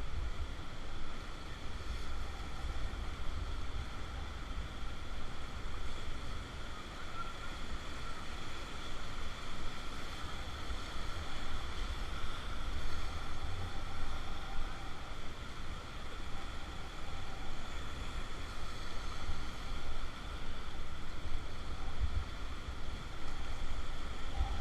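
Rushing river water around a raft, a steady churning noise, with wind buffeting the microphone.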